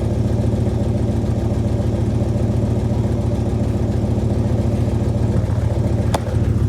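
1995 Dodge Ram V8 idling steadily while warming up after a cold start at about 35 °F. There is a single sharp click near the end.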